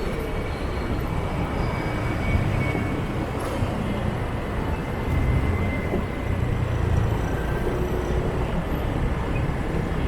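Steady motorbike traffic noise heard from a riding scooter: engines running and road noise, with a continuous low rumble.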